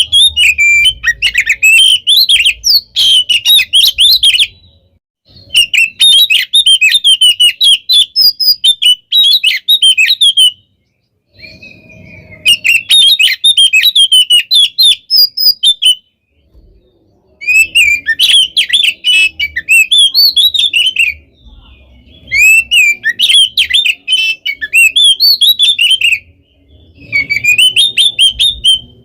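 Oriental magpie-robin (kacer) singing a fast, dense song of chattering and whistled notes, in bouts of about four to five seconds separated by short pauses.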